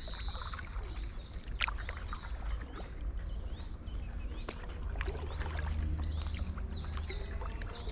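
Stand-up paddleboard paddle dipping and splashing in canal water, with scattered drips, while small birds chirp in short high notes that grow busier in the second half. A steady low rumble of wind on the microphone lies beneath.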